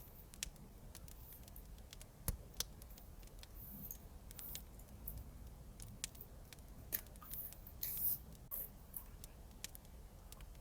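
Scissors snipping paper in short strokes, with small clicks and brief rustles of paper and tape handling; a couple of sharper snaps a little over two seconds in.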